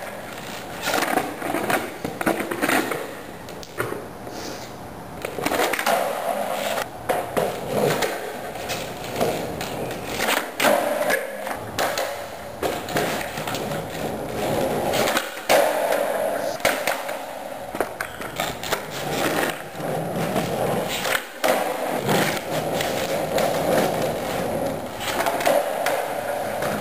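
Skateboard wheels rolling, with repeated sharp clacks and knocks of the board popping and landing during tricks.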